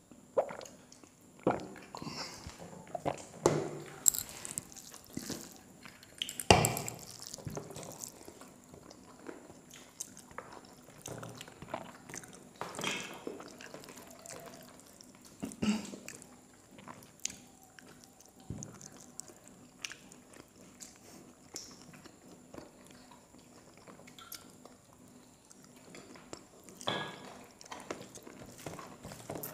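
Close-miked chewing and mouth noises of people eating rice and chicken curry by hand, with scattered sharp clicks and taps.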